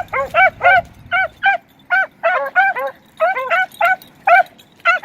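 Beagle hounds giving tongue while running a track: short, repeated barking calls, about three a second, each rising and falling in pitch, with two voices at slightly different pitches overlapping at times.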